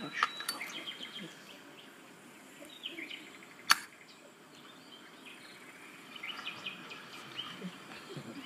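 Quiet outdoor background with faint bird chirps, and a single sharp click about three and a half seconds in.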